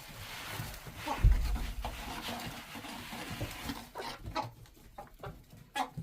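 Chickens in a coop with rustling and scuffling and a heavy thump about a second in, then scattered short animal sounds.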